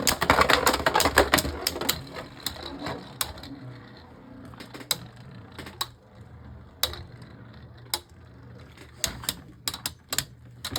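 Two Beyblade Burst tops, Harmony Pegasus and Air Knight, spinning and colliding in a plastic stadium. There is dense, rapid clacking for the first couple of seconds, then a quieter steady whirr of spinning broken by single sharp clicks of hits, which come more often near the end.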